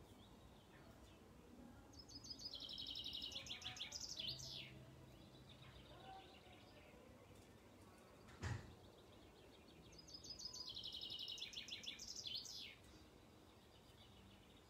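A songbird sings two similar trilled phrases about eight seconds apart. Each is a rapid run of high repeated notes that ends in a few falling slurs. A single sharp click falls between them.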